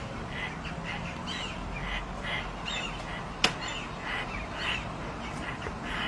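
Birds calling over and over in short calls, with one sharp click about three and a half seconds in.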